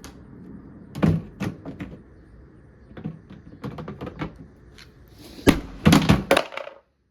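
Repeated thuds and knocks of blows against the hard plastic lid of a portable washing machine, which holds up: a few hits early, scattered smaller knocks, then the loudest rapid run of hits near the end before the sound cuts off suddenly.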